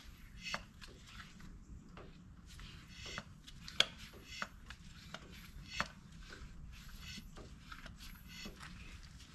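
Cooling-system pressure tester being handled at the car's coolant tank: irregular light clicks and knocks with soft rubbing between them.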